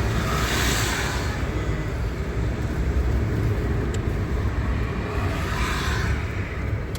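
Road traffic noise: a steady low rumble, with two vehicles swishing past, one about half a second in and another near the end.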